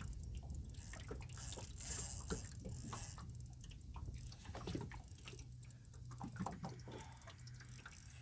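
Water lapping and dripping against a small boat's hull, with irregular light clicks and taps throughout, over a steady low rumble.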